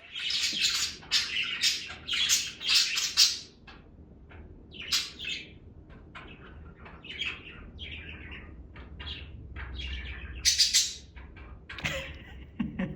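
Pet budgerigars chirping and squawking: a rapid run of loud calls for the first three seconds or so, then scattered short calls, and another loud burst about ten and a half seconds in.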